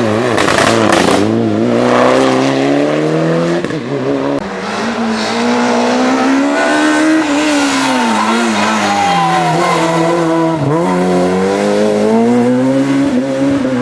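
Rally car engine driven hard on a stage, revving up and dropping back several times as it shifts gears and lifts off for corners, with a sharp drop and climb about three-quarters of the way through.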